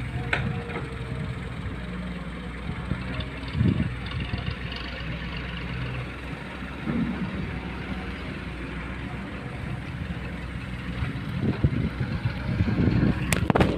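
A heavy diesel engine running steadily at low revs, with a few louder knocks and thumps, mostly near the end.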